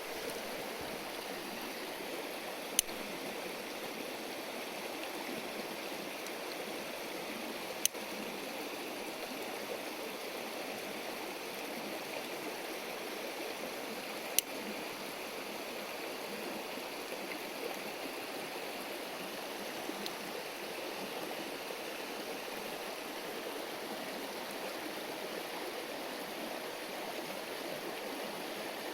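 River stream running steadily with an even rushing murmur. Three sharp clicks stand out briefly, a few seconds apart.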